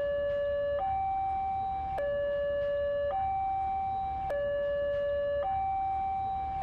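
Two-tone hi-lo emergency siren, switching between a lower and a higher steady tone about every second.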